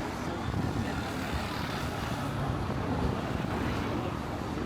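Steady low engine rumble from passing traffic.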